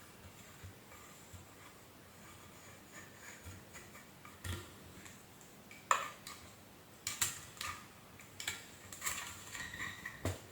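Metal clicks and taps from hand tools working on a vacuum cleaner motor as it is being opened. A few isolated knocks come first, then a quick run of clicks in the second half.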